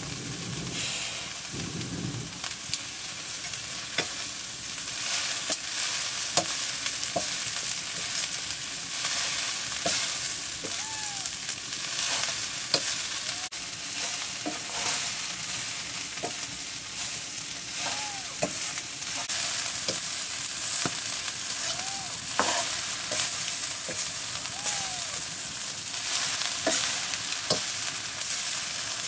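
Chopped leafy greens sizzling in a black iron wok, with a metal ladle stirring and scraping the pan. The sizzle is steady, broken by scattered clicks and a few short squeaks from the ladle on the iron.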